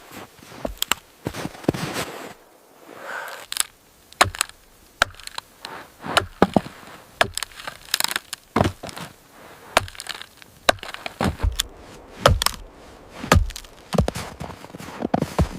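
An irregular series of sharp cracks and knocks, a dozen or more, with softer scraping noise between them.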